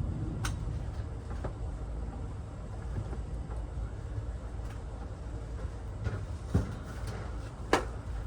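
A few sharp knocks, the loudest near the end, from blocks and a heavy pool heater unit being handled and shimmed, over a steady low rumble.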